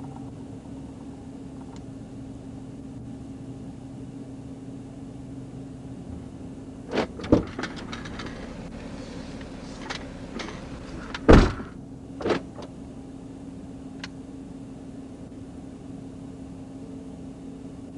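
Steady hum inside a parked vehicle, broken by a few sharp thumps and clunks, the loudest about eleven seconds in.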